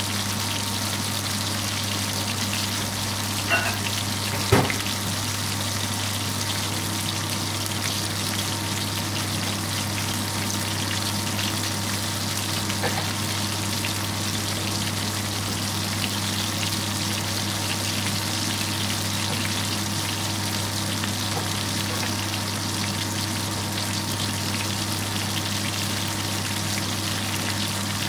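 Beef burger patties sizzling steadily as they shallow-fry in hot oil in a frying pan, over a steady low hum. Two short sharp knocks come about four seconds in.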